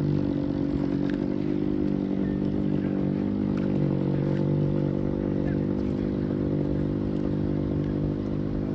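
Old Daihatsu Hijet three-cylinder engine running steadily in a homemade three-wheeler, with an even hum that holds its pitch.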